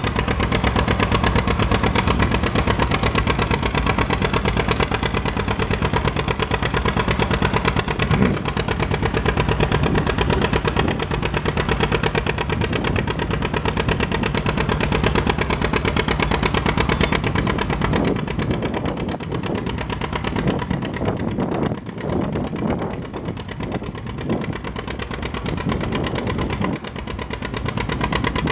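Antique farm tractor engine running hard under load in a tractor pull. It runs steadily for most of the time, then turns uneven with the level dipping in the last ten seconds.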